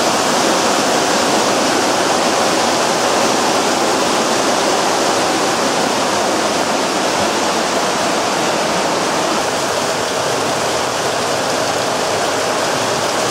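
Heavy thunderstorm downpour: very intense rain, a cloudburst, falling steadily as a loud, even rush of water.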